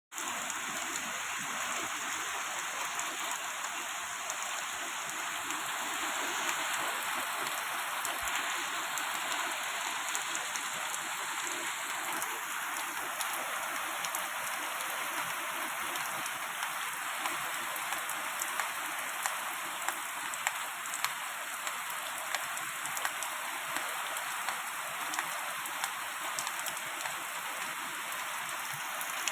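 Steady rain falling, an even hiss with many sharp drop ticks scattered through it, more of them in the second half.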